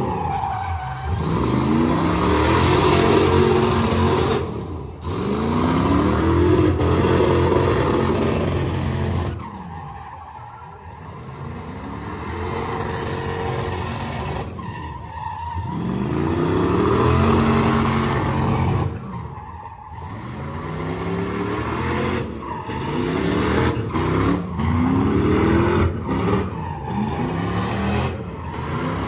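An engine revving hard again and again, its pitch climbing in repeated sweeps, over the hiss of tires screeching: a vehicle spinning its tires in a burnout. It eases off briefly twice, about a third and two-thirds of the way through.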